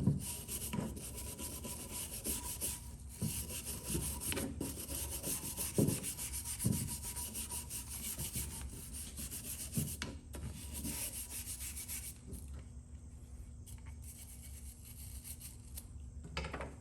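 Wire brush scrubbing loose rust off a steel ratchet in quick scratchy strokes. The scrubbing thins out for the last few seconds.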